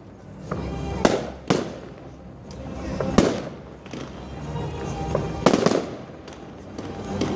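Fireworks going off: a string of sharp bangs, about five of them, with crackling in between.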